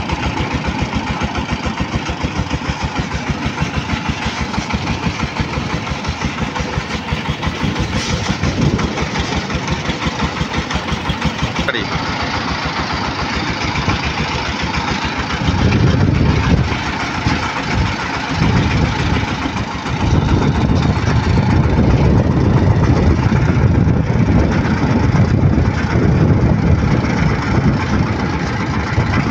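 Single-cylinder Changfa diesel engine of a bhutbhuti motor van running with a fast, even chugging beat. About halfway through it turns louder and heavier, drops back for a few seconds, then stays louder to the end.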